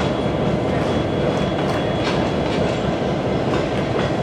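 A train passing close by: a steady heavy rumble with wheels clicking over the rail joints every so often.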